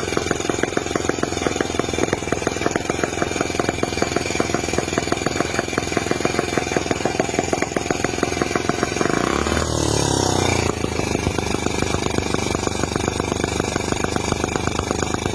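Miniature 2.2cc two-cylinder four-stroke model engine running steadily with a rapid, even firing rhythm. A little past two-thirds of the way in it briefly grows louder with a falling sweep, then settles back.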